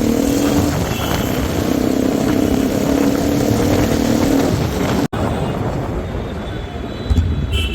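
Bajaj Pulsar NS200 motorcycle's single-cylinder engine running steadily while riding, with wind and road noise. The sound drops out for an instant about five seconds in and is a little quieter afterwards.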